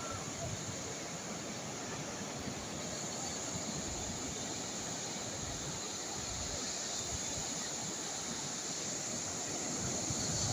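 Calm sea waves washing in a steady hiss, with some wind buffeting the microphone.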